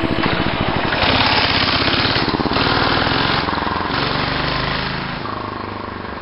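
Minibike's Tecumseh 5 hp single-cylinder four-stroke engine running, with a rapid, even firing beat that fades over the last second or so.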